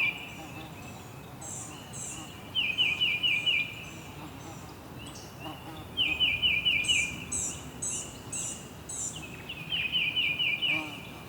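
Songbirds singing: a phrase of five or six quick notes repeated every three to four seconds, with groups of higher, thinner chirps between the phrases, over a steady background hiss.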